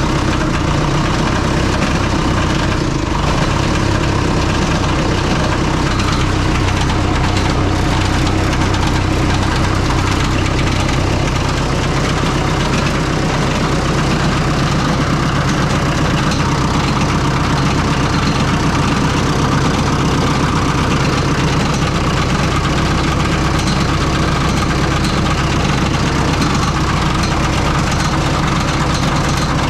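Oliver 66 diesel tractor's four-cylinder engine running steadily at idle, with a ticking from a cooling-fan blade striking the shroud, the blade about to break off.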